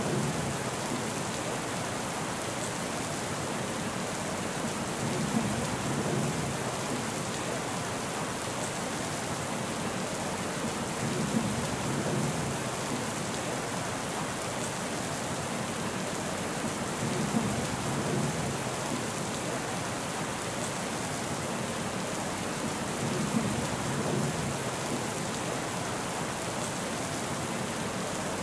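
Steady rain falling in an even hiss. A soft low rumble swells and fades at even spacing, about every six seconds.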